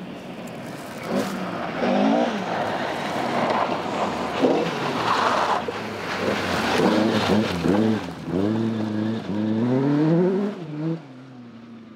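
Historic rally car engines revving hard along a rally stage, the pitch rising and falling; in the second half an engine climbs through several quick gear changes before the sound drops away near the end.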